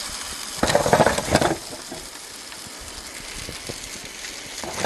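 Hot dogs sizzling on a camp burner stove, a steady hiss, with a short burst of clattering about a second in as the food is turned.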